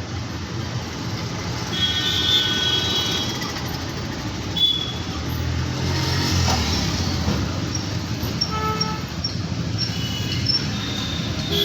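Busy road traffic: engines and tyres give a steady rumble that swells as a vehicle passes about six seconds in, with several vehicle horns honking, the first about two seconds in and more toward the end.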